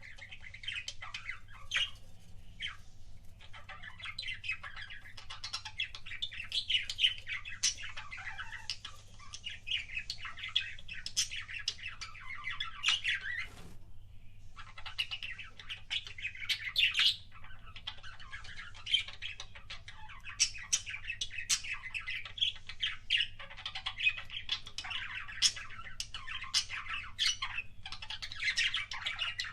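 Budgerigars (budgies) chattering: a busy, continuous warble of short chirps and sharp squawks, with a brief pause about halfway through.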